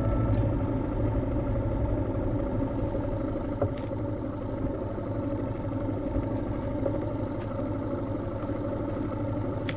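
A motorcycle engine running steadily, a low drone with no change in pace.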